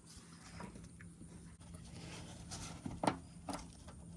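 A few light clicks and knocks of hand work on the truck's plastic trim and clips, grouped about three seconds in, over a faint steady hum.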